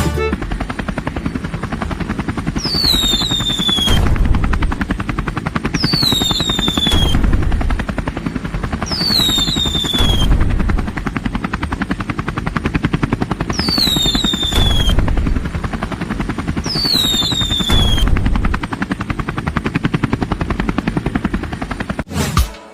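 A rapid, steady chopping rattle, with a high whistle falling in pitch five times, about every three seconds.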